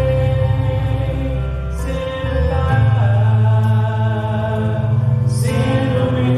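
Live gospel music: long held chords over a steady bass line, with voices sustaining long notes. A crash swells up about five and a half seconds in.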